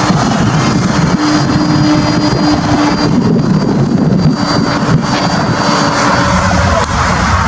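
Vehicle running steadily, with a continuous low engine and road rumble and a few faint steady tones above it.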